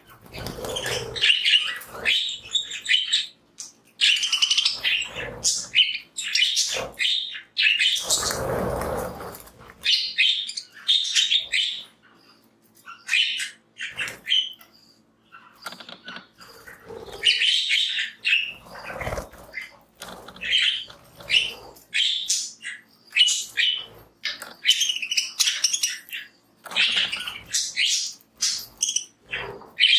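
A flock of pet budgerigars chirping and chattering in quick bursts, with a longer rushing noise about eight seconds in.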